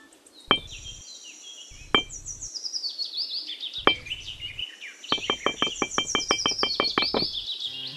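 Birds chirping with repeated high, falling chirps, over sharp clicks: single clicks about half a second, two seconds and four seconds in, then a quick even run of about six clicks a second.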